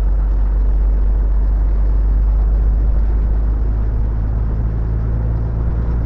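Steady low rumble of a heavy truck on the move, heard from inside the cab: engine and road drone. A steadier low hum joins in a little past halfway.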